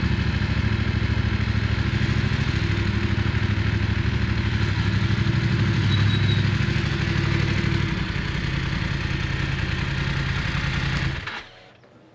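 Motorcycle engine running steadily, then switched off about eleven seconds in, leaving a few small clicks.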